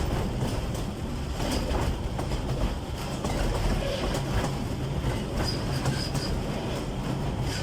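Narrow-gauge forest railway train with an Mk48 diesel locomotive running along the track: a steady rumble with wheels clicking over the rail joints. There is a brief high squeal of wheels on rail a little over halfway through.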